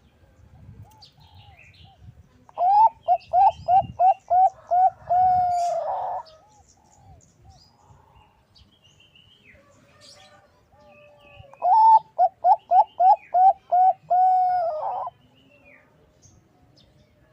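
Zebra dove (Bangkok-strain perkutut) cooing twice: each bout is a quick run of about eight short clipped coos followed by one long drawn coo that drops in pitch as it ends. Faint high chirps of small birds are heard between the bouts.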